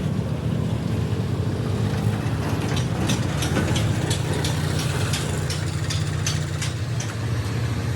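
A large engine idling steadily with a low hum. From about three seconds in, a scatter of light ticks sounds over it.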